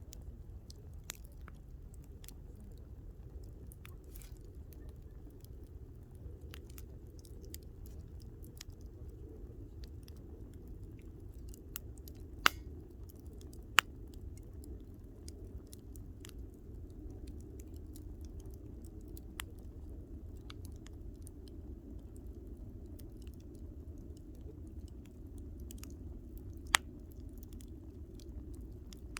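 Wood campfire crackling with a steady low rush of flames and scattered small snaps; a few sharp, loud pops stand out, twice around the middle and once near the end.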